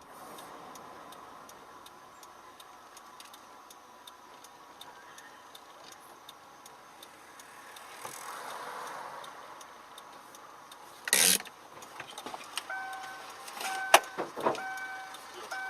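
Car interior heard on a dash cam: light, even ticking about three times a second over a faint hiss, then a loud bang about eleven seconds in and more sharp knocks a few seconds later. Near the end a repeating electronic beep starts.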